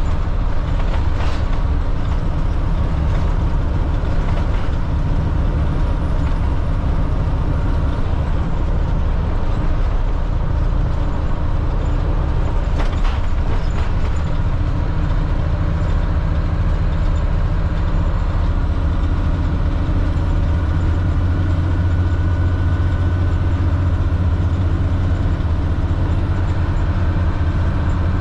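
A 2005 Blue Bird All American FE school bus driving, its Cat C7 diesel engine running steadily with road and body noise. A couple of sharp rattles come about a second in and again near thirteen seconds. The low engine rumble grows stronger from about twenty seconds in.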